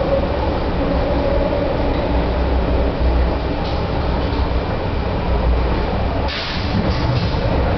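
MTR MLR electric multiple unit train running, heard from inside the carriage: a steady, loud rumble of wheels and running gear. About six seconds in the rumble dips and the sound changes character.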